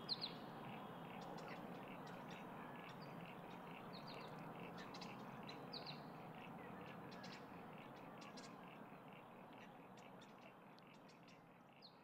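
Faint outdoor ambience: birds chirping a few short times over an even, pulsing background chorus, fading out near the end.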